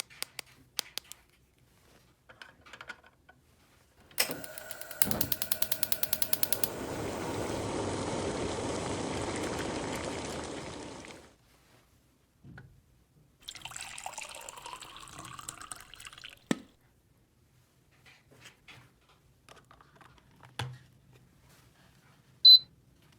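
Rapid clicking for about two seconds, then water running for about four and a half seconds before tailing off. A shorter, quieter stretch of rustling or splashing noise follows later, with scattered small clicks of plastic toy parts being handled.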